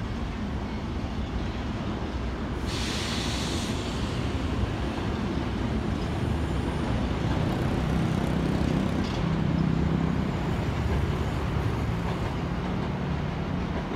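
Tokyo Metro Marunouchi Line trains running over the bridge and through the tunnel mouth: a steady rumble of wheels on rails that swells as a train comes out of the tunnel near the middle. There is a short burst of hiss about three seconds in.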